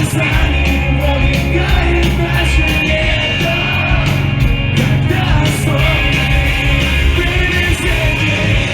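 Live emo/hardcore band playing loud, with distorted guitars, bass and drums under yelled and sung vocals.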